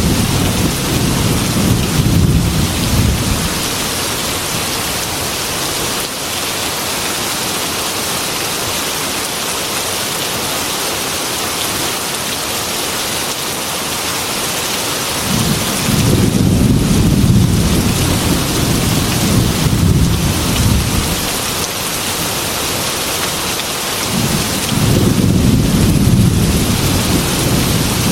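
Heavy rain falling steadily on a glass window, with low rolling thunder rumbling three times: once at the start, again from about halfway for several seconds, and once more near the end.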